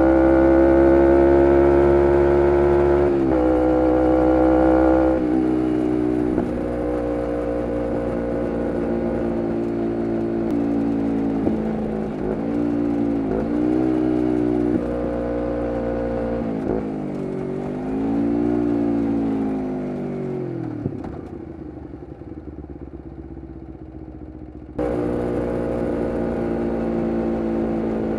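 2011 Kawasaki Ninja 250R SE's parallel-twin engine through a full Graves race exhaust, running at high revs with a quick gear change about three seconds in. The revs then ease off and dip and rise several times before falling away to a low, quieter note, then suddenly come back at steady revs near the end.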